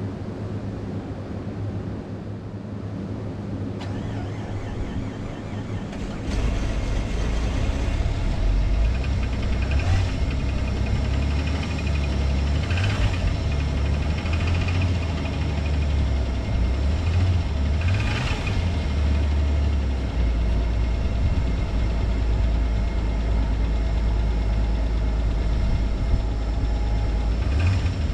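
Jeep Grand Cherokee's 4.0L inline-six starting about six seconds in at −11°F (−24°C), then running roughly and unevenly after a cold start on a 220,000-mile engine. It settles into a steadier idle in the last few seconds.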